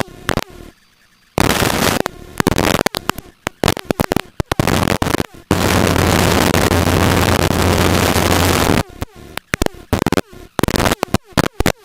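Helicopter engine and rotor noise in the cabin, heard through the headset intercom as it cuts abruptly in and out. A longer unbroken stretch with a low hum runs from about halfway through to about three quarters of the way through.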